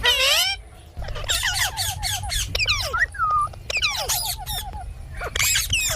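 Indian ringneck parakeet calling: a fast run of squawks, chirps and whistles that slide up and down in pitch, with a brief lull about a second in, over a steady low rumble.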